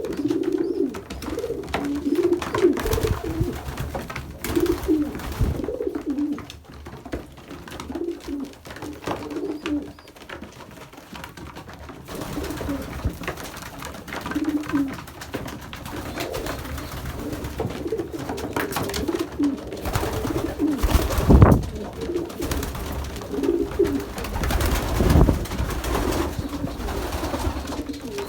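Racing pigeons cooing repeatedly in a loft, with scattered knocks and rustles, and one louder thump about two-thirds of the way through.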